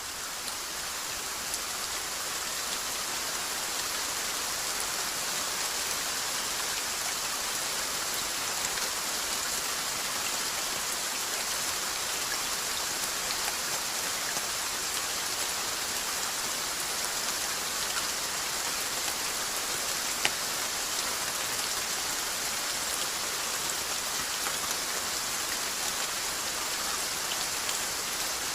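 Steady rain falling in a dense, even patter, with one louder sharp tick about twenty seconds in.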